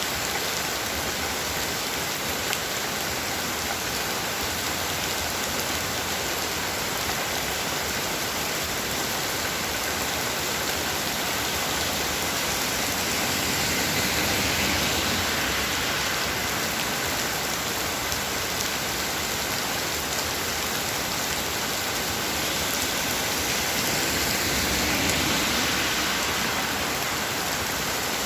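Heavy rain falling steadily, swelling a little louder twice: once about halfway through and again near the end.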